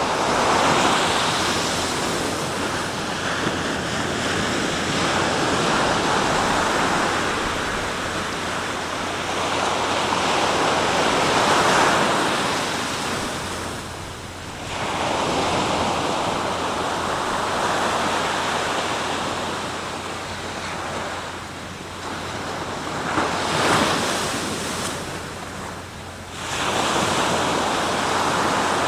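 Sea waves breaking on the shore in long, repeated surges, each swelling and then easing off, with brief lulls about halfway through and near the end.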